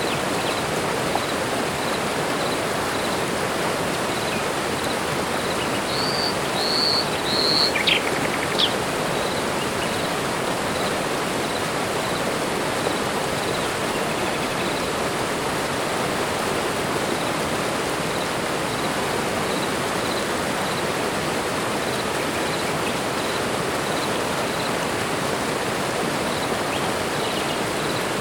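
Steady rush of running water in a tropical forest, with a bird calling a few short high whistled notes and quick falling notes about six to nine seconds in. A faint high chirp repeats evenly, about every two-thirds of a second.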